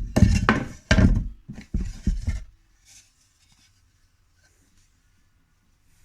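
Wooden beehive box boards knocking and clattering against each other as they are handled and fitted together, a run of knocks that stops about halfway through.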